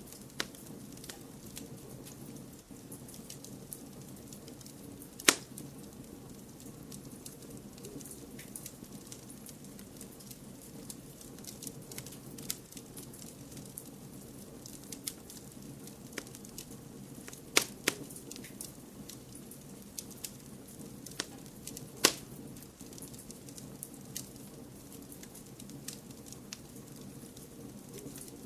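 Wood fire crackling in a fireplace over a steady low hiss: many small sharp crackles, with a few loud pops, one about five seconds in, a quick pair past the middle and another a few seconds after.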